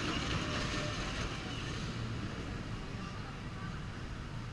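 A ride train rumbling along its track and fading slowly as it moves away.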